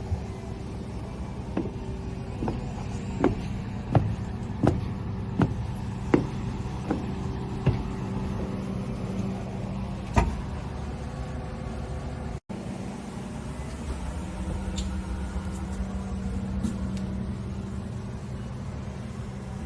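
Yamaha UF-25 boat's inboard engine running steadily. Through the first eight seconds a row of sharp knocks comes about every 0.7 s, with one more about ten seconds in, and the sound breaks off for an instant just past halfway.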